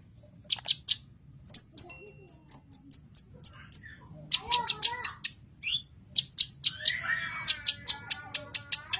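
Blue-masked leafbird (cucak kinoy) singing: runs of rapid, sharp, high chirps about four to five a second, broken by a short pause near the start and a warbling phrase of lower gliding notes about seven seconds in.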